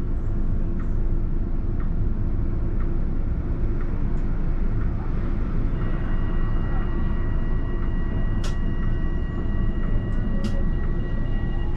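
Alstom Citadis tram running along its track, heard from the driver's cab: a steady low rumble. About halfway in a steady high whine joins it, and there are two sharp clicks near the end.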